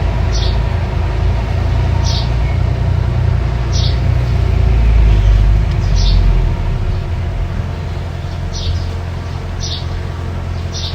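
Mini bulldozer's engine running with a steady low rumble that eases about six and a half seconds in. A bird calls over it, a short high chirp every second or two.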